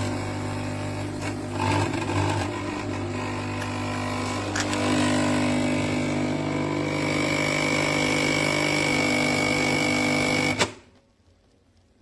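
Nescafé Dolce Gusto capsule coffee machine's pump running as it brews, a steady loud buzz with a thin high whine joining partway through, then cutting off abruptly near the end.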